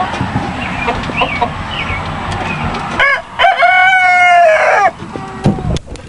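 Chickens clucking, then a rooster crowing once about three seconds in: one long call of about a second and a half that drops in pitch at the end.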